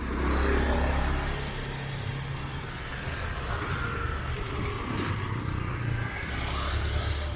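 Street traffic: engines of passing motor vehicles, with a steady low hum under general road noise.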